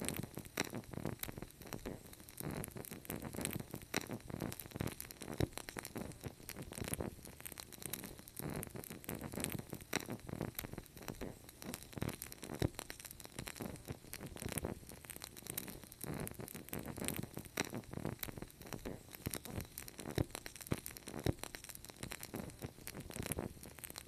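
Wood fire crackling and popping steadily: many small irregular snaps over a low rumble of flames.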